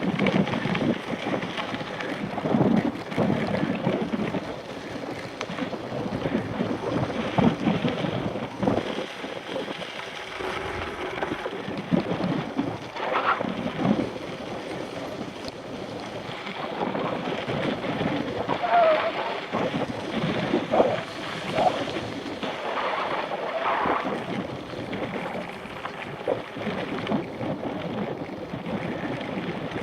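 Wind buffeting the microphone of a Shimano CM-1000 action camera carried on a moving mountain bike, an uneven rushing noise that surges and eases.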